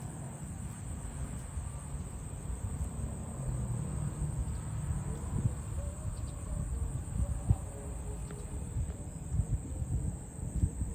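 Steady high-pitched chirring of insects, under a low rumble of wind on the microphone with a few short knocks.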